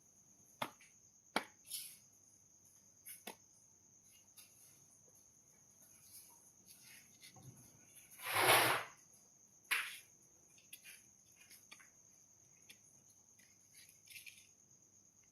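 Steady high-pitched insect trill, with scattered faint clicks and one brief louder rustling burst about eight seconds in.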